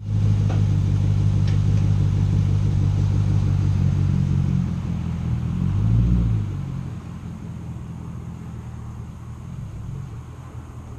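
2015 Camaro 2SS's 6.2-litre V8 through a muffler-and-resonator-delete exhaust with an X-pipe, a deep steady rumble. It swells briefly about six seconds in, then drops to a quieter rumble.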